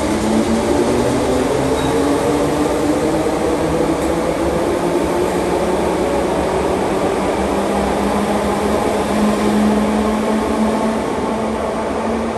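Merseyrail electric train pulling out of an underground station, a steady, loud motor hum and rumble whose tones rise slowly in pitch as it gathers speed.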